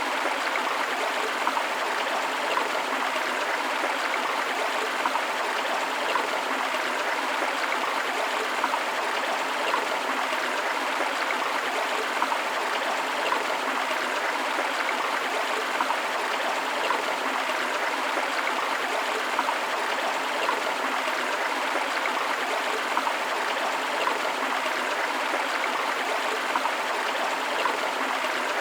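Forest river rushing steadily over rocks, a dense even wash of water with constant small splashes and gurgles.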